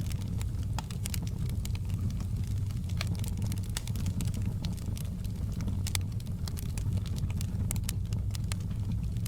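Wood fire burning in a fireplace: scattered sharp crackles and pops, several a second, over a steady low rumble.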